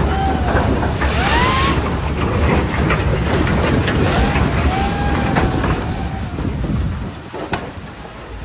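Strong wind buffeting the microphone over rough open water, with a heavy low rumble. Several long, wavering high tones rise and fall through the first half. A sharp click comes near the end, as the rumble eases off.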